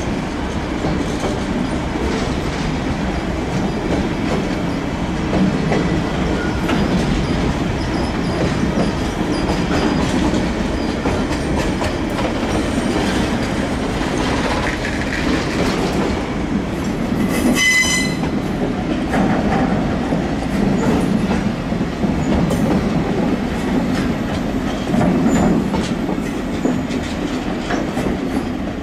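Train of flat wagons loaded with concrete sleepers rolling past, its wheels clattering steadily over the rails. A short high-pitched squeal comes about two-thirds of the way through.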